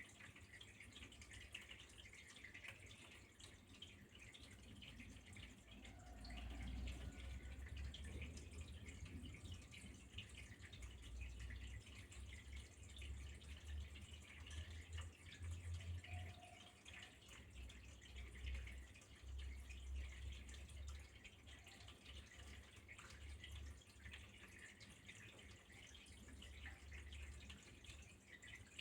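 Faint trickling and dripping of flowing water, a steady patter of small drops, with a low rumble that comes and goes underneath.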